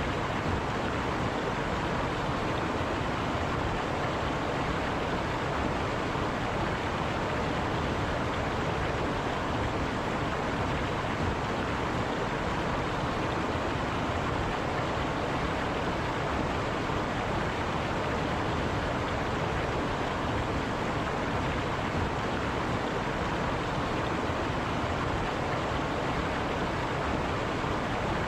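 River water rushing steadily over rocks, a constant even roar of flowing water with no breaks.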